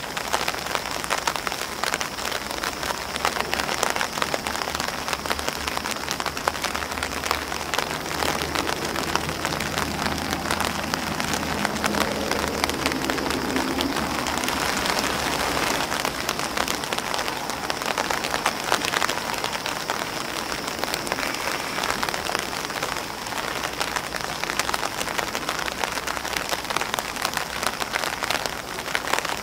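Steady rain falling on an umbrella and on grass leaves: a constant hiss with many sharp, close drop taps on the umbrella. A faint low rumble swells under the rain through the middle stretch.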